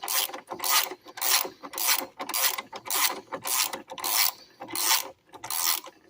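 Ratchet wrench turning out a stuck bolt, its pawl rasping in quick strokes about twice a second.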